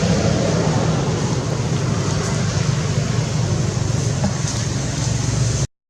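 Steady low rumbling background noise with no clear tone, cutting off abruptly near the end.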